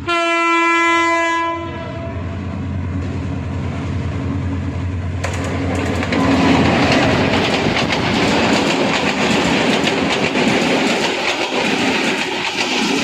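Diesel locomotive horn sounding one blast of about a second and a half. It is followed by the rumble of the Kalni Express, and from about five seconds in by loud wheel-on-rail noise and clickety-clack of the coaches running at speed.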